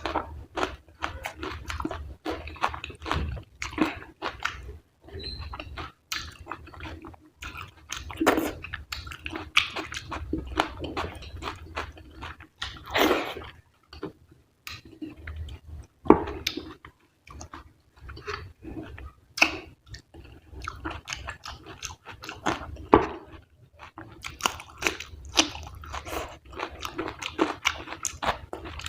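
Close-miked chewing of fatty mutton curry and rice: wet mouth sounds with a dense run of irregular short clicks and crunches.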